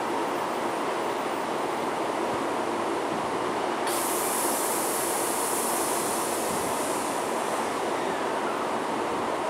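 Taiwan High Speed Rail 700T trainset standing at the platform with a steady rushing hum. About four seconds in, a high hiss of air starts suddenly and fades away over the next few seconds.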